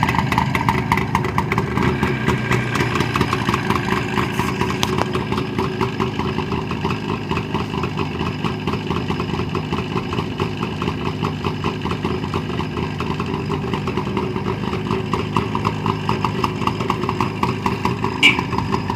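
Jawa 638 motorcycle's two-stroke twin engine idling steadily with an even, rapid pulsing. A brief high chirp sounds near the end.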